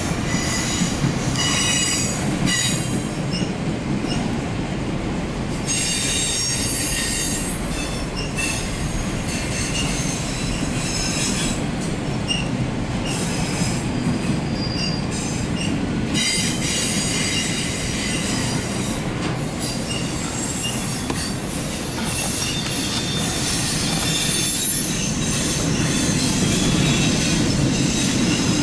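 Empty autorack freight cars rolling past on steel wheels, heard from inside a car: a steady rumble of wheels on the rails, with high-pitched wheel squeal coming and going.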